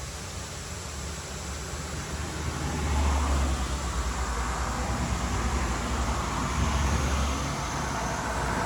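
Yanmar C10R-1 crawler carrier's diesel engine running, growing louder about two and a half seconds in and holding there.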